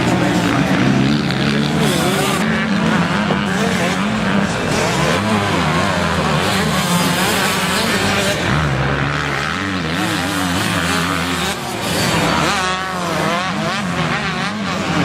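Several motocross bikes racing, their engines revving up and falling back over and over as the riders work through the gears.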